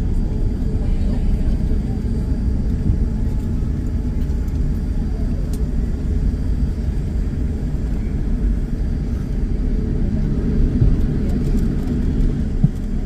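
Steady low rumble inside the cabin of a Boeing 787-9 Dreamliner on the ground after landing, with one brief knock near the end.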